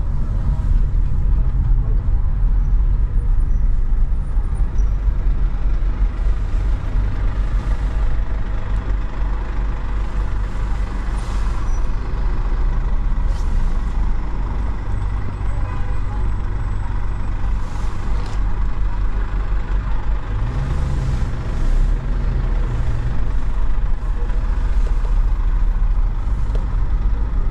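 Ferrari F8 Spider's twin-turbo V8 running at low speed, a steady low drone, with a brief rise in revs about twenty seconds in.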